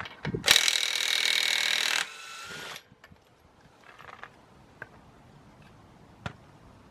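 A handheld power tool runs at full speed for about a second and a half, then more lightly for under a second before stopping abruptly. A few faint clicks and knocks follow.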